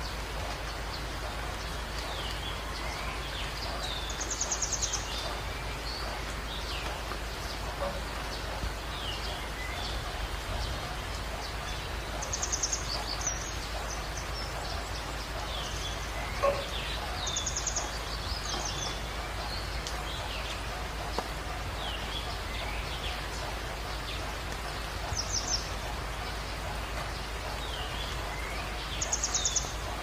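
Wild birds calling over a steady background hiss: many short falling chirps, and a brief buzzy trill repeated every few seconds.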